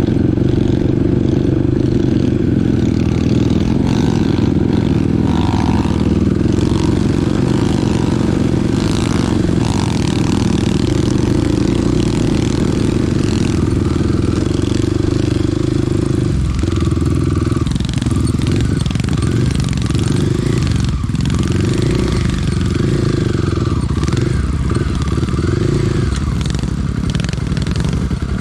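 Small dirt bike's engine running loudly under way, steady for the first half. From about halfway through the engine note comes and goes as the throttle is opened and closed.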